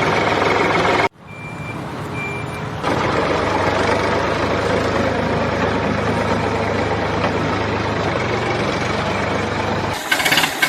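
Small motor running steadily. It cuts off sharply about a second in, two short high beeps follow, and the steady running resumes. Near the end it gives way to a different sound with gliding tones.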